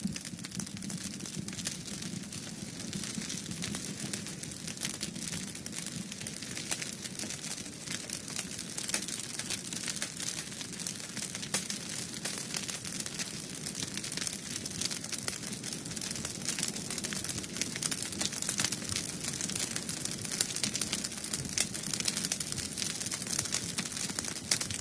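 Wood fire in a fireplace crackling steadily, with a dense run of small irregular pops and snaps.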